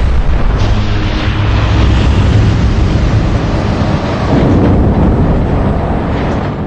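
Large turbofan jet engine on a test bed during a fan blade-off test, running with a loud, rough roar and crackle.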